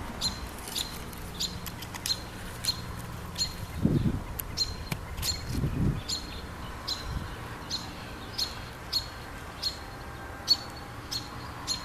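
Robin chirping: short, sharp, high call notes repeated about every half second, with a couple of low rumbles near the middle.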